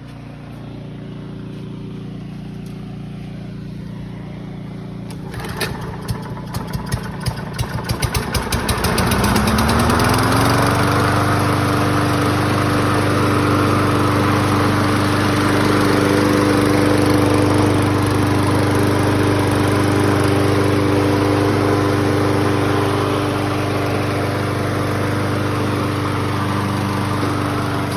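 A 2012 Toro 20370 walk-behind mower's Kohler 6.75 single-cylinder engine starting after a repair of its broken muffler bolt. Firing begins about five seconds in and speeds up until the engine comes up to speed about ten seconds in. It then runs at a steady speed. Before the start there is a steady low hum.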